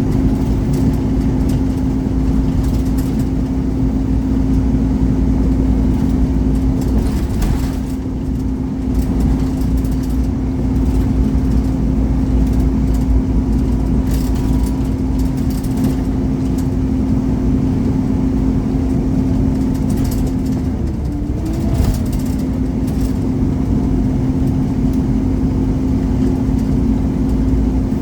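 Scania Omnicity single-deck bus's 230 hp diesel engine, heard from inside the bus while it drives along, with a heavy low rumble and a steady droning hum. The hum drops out briefly about seven seconds in and bends in pitch around twenty-one seconds in, as the engine speed shifts.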